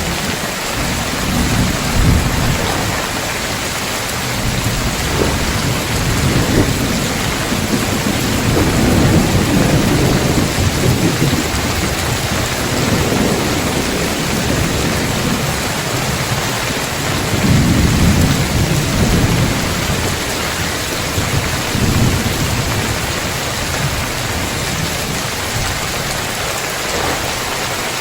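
Heavy rain falling steadily on a tiled roof, an even hiss, with low thunder rumbling underneath that swells several times, most strongly about a third and two-thirds of the way through.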